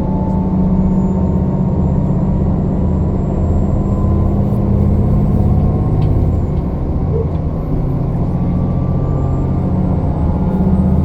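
Diesel express train heard from inside the passenger car while running: a loud, steady engine and running drone that swells and eases, with a faint whine sliding slowly in pitch.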